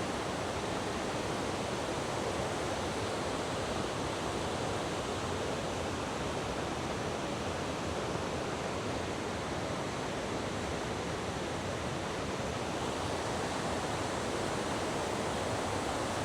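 A rushing river, heard as a steady, unbroken noise of flowing water.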